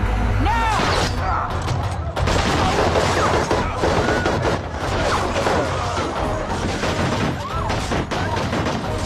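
Rapid gunfire from a TV action-scene soundtrack, many shots in quick succession with crashes, over dramatic background music.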